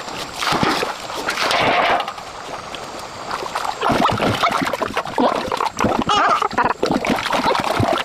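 Water splashing and sloshing with many irregular short knocks and splashes, and a brief high wavering call about six seconds in.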